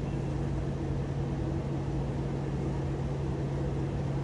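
Steady low mechanical hum of an engine running at a constant speed, unchanging throughout.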